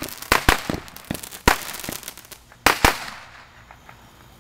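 Consumer fireworks going off: an irregular series of sharp bangs with crackling between them, the last two close together near three seconds in, then dying away.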